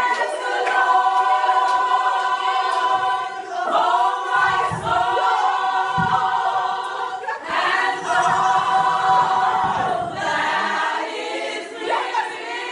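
A group of voices singing in choir style, holding long notes in phrases a few seconds each.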